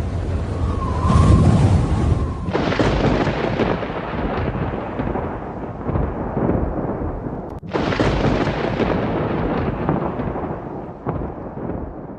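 Thunder: two long rolling peals, the second starting about eight seconds in, each fading away, after a couple of seconds of steady hiss.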